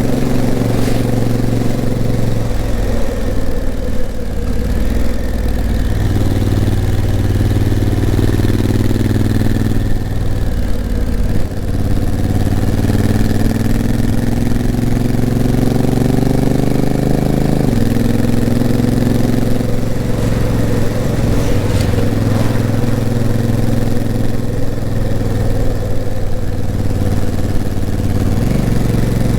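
Honda CRF1000L Africa Twin's parallel-twin engine pulling the bike uphill, its note climbing with speed and dropping at gear changes of the dual-clutch gearbox, most clearly about eighteen seconds in. Steady wind and road noise run underneath.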